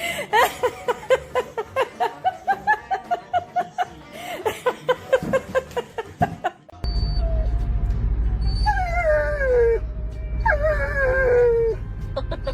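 A dog yelping in a quick run of short pitched calls, several a second. Then, over a steady low rumble, it gives two long whines that each fall in pitch.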